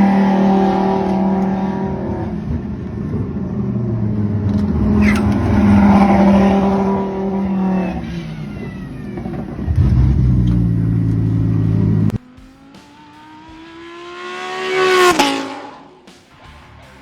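Lamborghini Huracán Super Trofeo race cars' V10 engines running hard as the cars go by, with several engine notes overlapping. About twelve seconds in the sound cuts off abruptly. Then a single car approaches, revving up, passes close about fifteen seconds in, and fades away.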